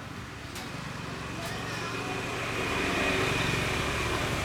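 A small engine running and growing louder.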